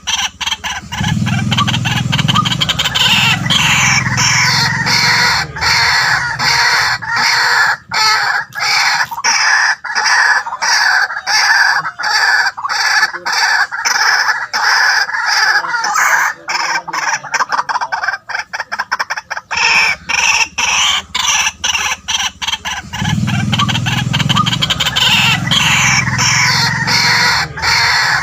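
White-breasted waterhen calling continuously in a fast run of repeated harsh notes. A deeper croaking part comes in about a second in and again near the end, as the call sequence repeats.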